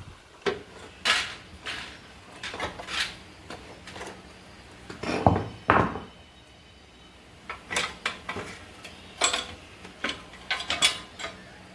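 Metal parts and tools clinking and knocking in irregular bursts, the loudest clatter a little over five seconds in.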